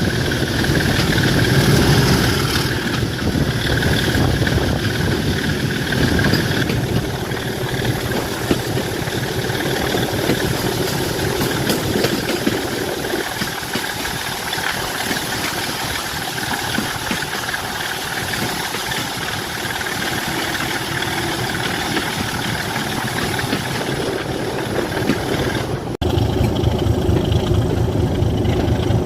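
Diesel locomotive engine idling steadily. There is a brief break about three quarters of the way through, after which the engine is louder.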